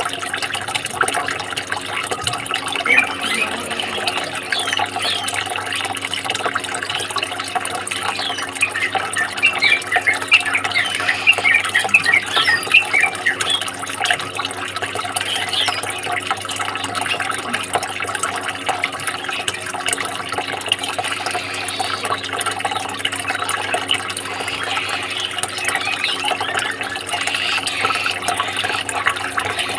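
Water running and splashing steadily, with short high bird chirps coming thickest about a third of the way in.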